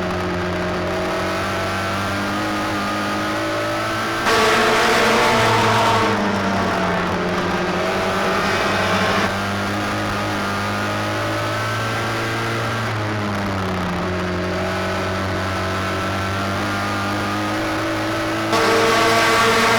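Racing midget engine running at speed through laps. Its pitch drops twice as the throttle eases and then climbs back. The sound gets abruptly louder for a few seconds about four seconds in and again near the end.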